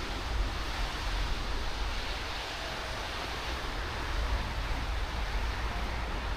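Steady outdoor noise: an even hiss with a fluctuating low rumble underneath and no distinct events.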